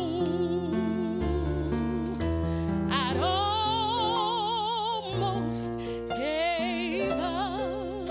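Woman singing a gospel ballad, holding long notes with wide vibrato over sustained instrumental accompaniment with a bass line. A new held phrase begins about three seconds in and another near the seven-second mark.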